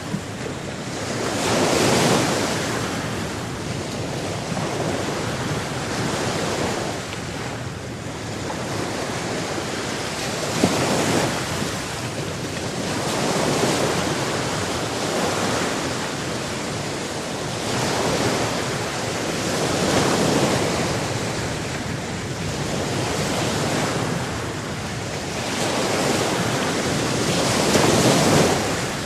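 Sea surf: waves washing in and drawing back, the rush of water swelling and fading every few seconds over a constant hiss of moving water.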